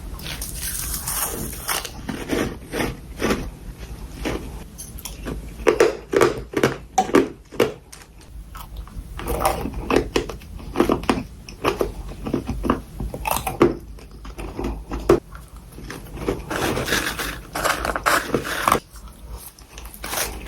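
Close-up crunching and chewing of powdery freezer frost, a dense run of sharp crunches with bursts of quick bites.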